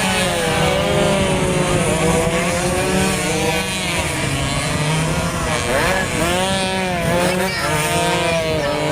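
Two-stroke 130cc underbone racing motorcycles running hard, several engine notes overlapping and repeatedly rising and falling in pitch as the riders rev and shift.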